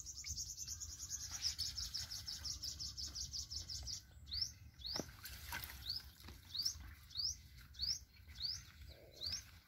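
Birdsong: a fast, high trill for about the first four seconds, then a run of short rising chirps, about two a second.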